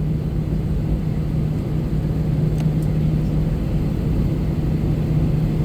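Airbus A321-200's jet engines heard inside the cabin before takeoff, a steady low rumble with a constant hum.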